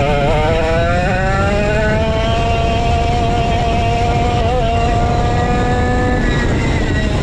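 135cc Sudam kart engine under throttle, its pitch wavering briefly and then climbing steadily for several seconds as the kart accelerates, before it drops away near the end as the throttle is lifted. A steady low rush runs underneath.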